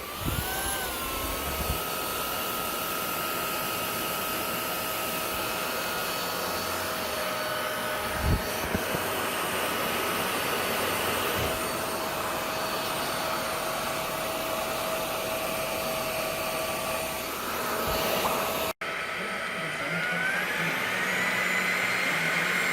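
LEVOIT VortexIQ 40 cordless stick vacuum running, its motor whine spinning up at the start and then holding steady. There is a single knock about eight seconds in, and a brief dropout near the end, after which the whine rises to a higher pitch and holds there.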